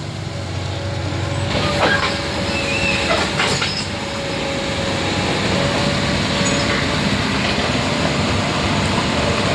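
Heavy machinery or vehicles on the road works running loudly, with metallic clanks and brief high squeals; the noise swells about a second and a half in.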